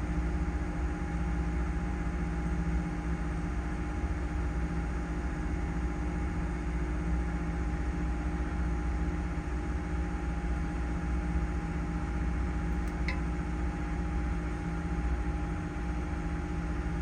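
A trawler's engine running steadily under way: a constant low drone with a steady higher whine laid over it, unchanging throughout. There is one faint tick about three-quarters of the way through.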